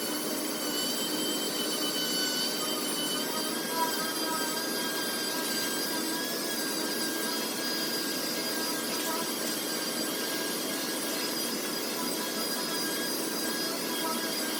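Double-action (random-orbital) sander running steadily with a high whine as it sands the primer surfacer on a car hood, with one short click about four seconds in.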